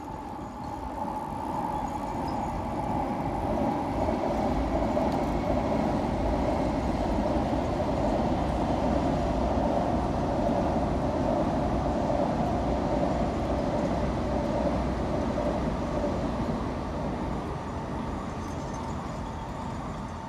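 N700A Shinkansen train running across a railway bridge, heard from a distance as a continuous rushing rumble that builds over the first few seconds, holds, and slowly fades toward the end.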